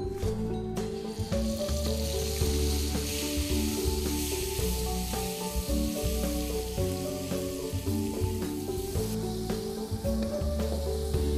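Ground spice paste, bay leaves and lime leaves sizzling in hot oil in an aluminium wok, stirred with a metal spatula. The sizzle swells about a second in and eases near the end. Background music plays underneath.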